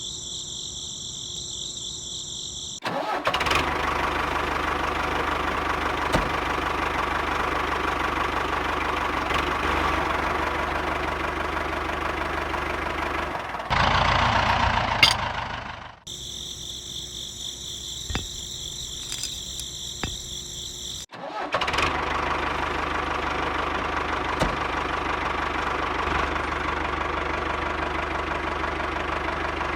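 A miniature tractor's small motor running steadily, in two stretches with hard starts and stops. About 14 seconds in it briefly gets louder. Crickets chirp in the gaps at the start and in the middle.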